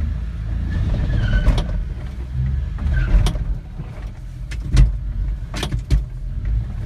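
A 1992 Suzuki Carry mini truck's small three-cylinder engine pulling under load as the truck climbs a slope in two-wheel drive, a steady low rumble. Several sharp knocks and rattles from the truck over the ground stand out above it.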